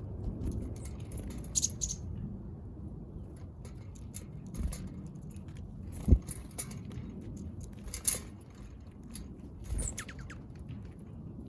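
Small backyard birds feeding: scattered light pecks and taps, a few brief high chirps, and one sharp knock about six seconds in, over a steady low rumble.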